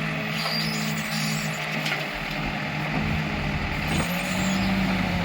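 Diesel engine of heavy machinery running at a steady pitch, with a few light knocks around two and four seconds in.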